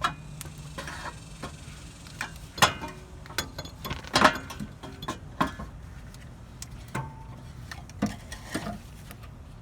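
Scattered metallic clinks and knocks as a CV axle is handled and maneuvered into place for fitting into the transmission, the loudest about two and a half and four seconds in, some with a short ring.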